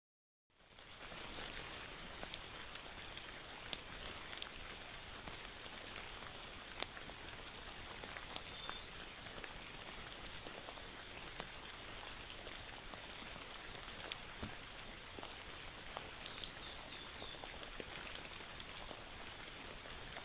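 Light rain falling on forest foliage: a steady faint hiss with scattered sharp drip ticks, cutting in about half a second in.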